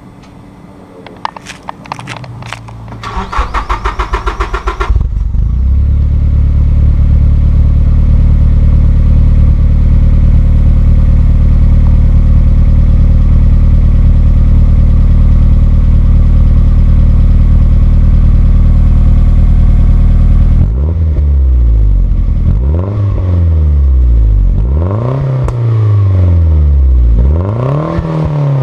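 Nissan Bluebird U12's turbocharged SR20DET four-cylinder, heard through an HKS Silent Hi Power Type S exhaust, being started: a few clicks, the starter cranks for about two seconds and the engine catches. It then idles steadily and, after about twenty seconds, is revved three times, the pitch rising and falling each time.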